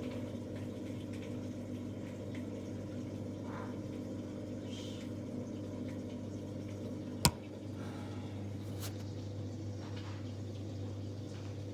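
A 14-year-old Samsung washing machine spinning at about 1000 RPM with an unbalanced load: a steady hum with a few faint higher noises, and one sharp click about seven seconds in. The owner takes the weird squeaking on this spin for worn drum bearings.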